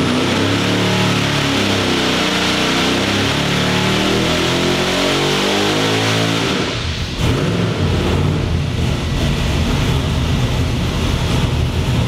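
Boosted LS V8 engine making a full-throttle dyno pull. Its pitch rises steadily for about six and a half seconds, then falls away to a lower, steady rumble as the pull ends.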